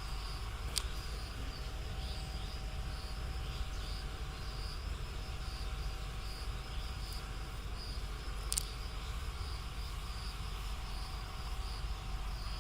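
Insects calling in a steady pulsing high buzz, over a low steady rumble of background noise, with two sharp clicks, about a second in and near the three-quarter mark.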